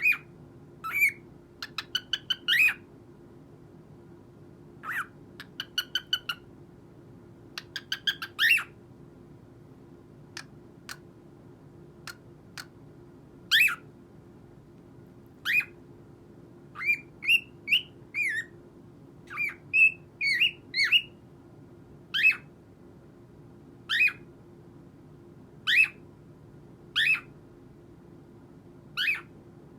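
Cockatiel calling in short chirps and squawks, with quick runs of clicking chirps in the first ten seconds and a call about every two seconds in the second half.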